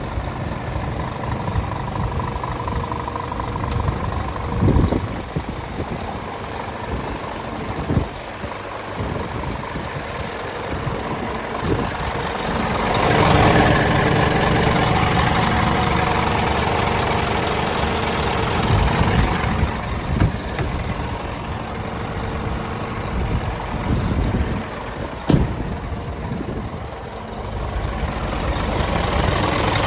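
Scania R410 truck's 13-litre six-cylinder diesel engine idling, growing louder for several seconds about halfway through, with a few sharp knocks.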